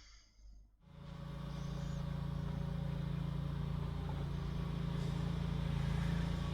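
A steady low mechanical hum, like an engine idling, that starts about a second in and grows gradually louder.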